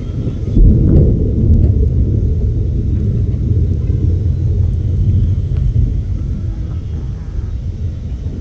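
Thunder: a loud, low rumble that swells suddenly about half a second in and slowly fades away.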